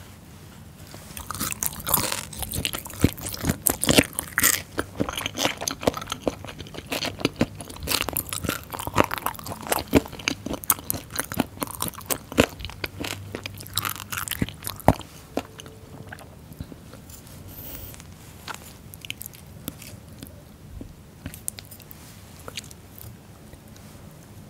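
Crunchy chewing of a mouthful of fermented skate, pork and aged kimchi, close to the microphone. The bites are dense for about the first fifteen seconds, then sparser and softer.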